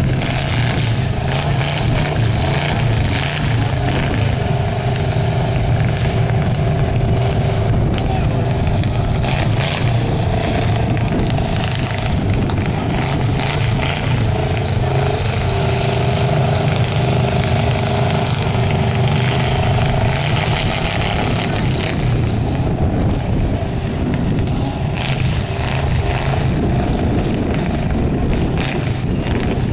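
Several demolition derby cars' V8 engines running hard through open exhaust pipes, a dense, steady engine noise as the cars push and spin their wheels in the mud.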